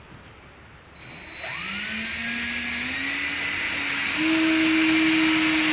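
A small electric motor switching on and spinning up: a whine that climbs in pitch under a rising rush of air, then jumps up again about four seconds in and holds steady.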